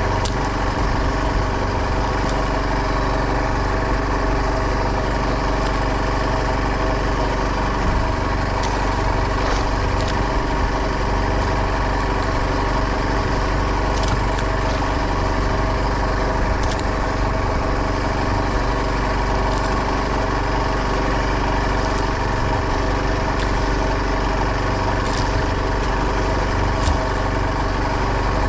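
Fishing boat's engine running steadily at a constant speed, with a few faint clicks scattered through it.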